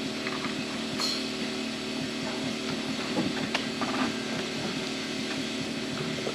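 A steady mechanical hum, like a small engine running, with a sharp click about a second in and a few knocks and taps later on from hand work on the framing.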